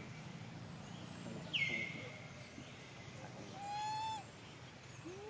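Monkey calls: about one and a half seconds in, a loud, high squeal that drops and then holds its pitch for half a second; near four seconds, a short, clear, lower call.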